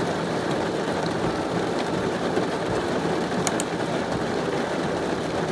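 Heavy rain falling, a steady dense wash of noise, with a couple of sharp ticks of drops striking something about three and a half seconds in.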